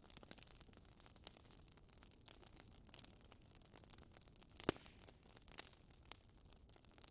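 Wood fire crackling quietly in a fireplace: irregular small pops and snaps over a low hiss, with one sharper pop about two-thirds of the way through.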